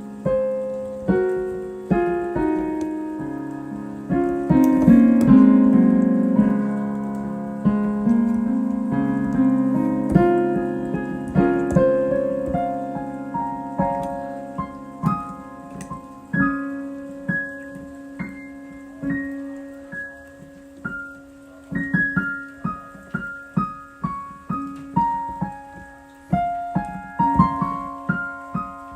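Solo piano improvisation: chords with a melody over them, loudest about five seconds in, then thinning out into quicker single notes over a held lower note.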